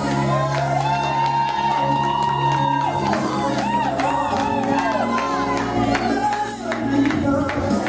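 Live church praise music: a lead voice sings long held and wavering notes over steady low accompaniment and percussion, with congregation voices joining in.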